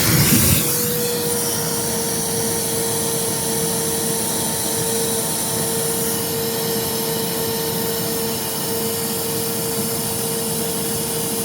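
A machine's electric motor running steadily: a constant whine over an even rushing noise, settling in about half a second in.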